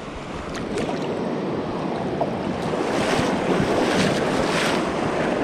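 A fast-flowing river rushing over stones, a steady wash of water that grows louder partway through, with some wind on the microphone.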